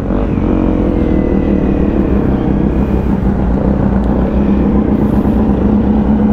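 Honda CRF250 Rally's single-cylinder engine running under way, its steady note slowly rising in pitch as the bike pulls on, over a low rumble of wind and road noise.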